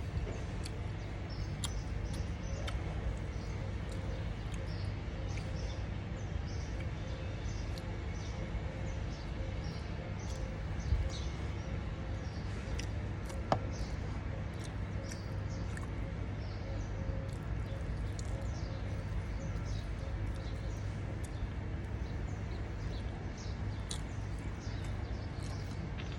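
Small birds chirping over and over, over a steady low background hum, with a couple of brief ticks partway through.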